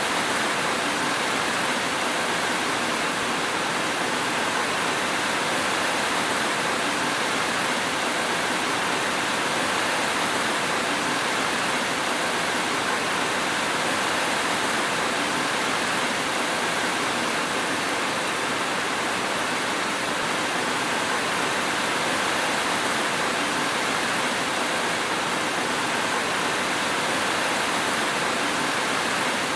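Steady rain, an even hiss with no thunderclaps or separate drops standing out.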